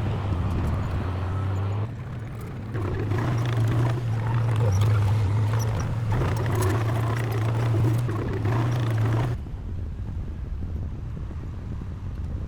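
Heavy diesel construction machine engine running with clattering and scraping from the machine at work. It gets louder about three seconds in, then drops off suddenly about nine seconds in, and the engine keeps running more quietly.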